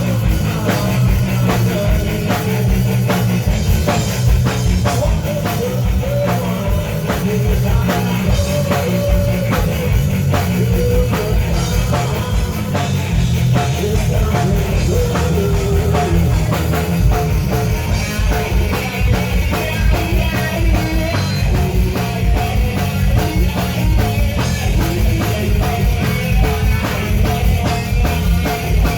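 Rock band playing live: drum kit, electric guitar and a male lead vocal.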